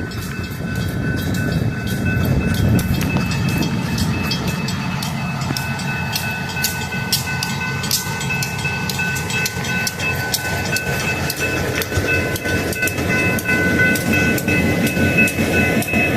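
A slow-moving freight train running through an active railroad crossing, with a steady low rumble and the clicking of wheels over the rails. The crossing's warning bells ring over it, with a steady high ringing from about five seconds in.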